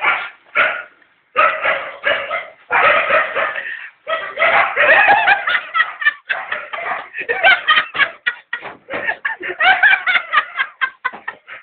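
A dog barking in quick bursts while people laugh and shout.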